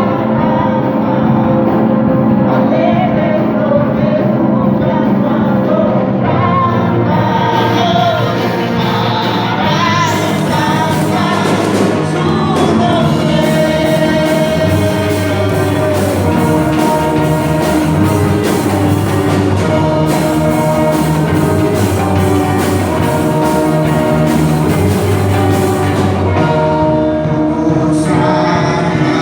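A live worship band playing while several voices sing a song, with a steady bass line underneath.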